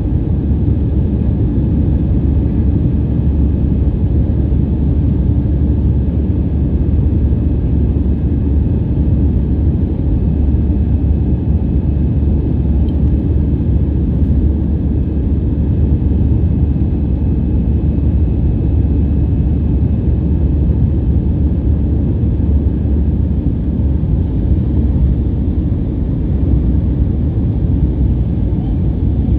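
Airliner jet engines running with a steady low rumble and faint steady whine tones over it, unchanging throughout.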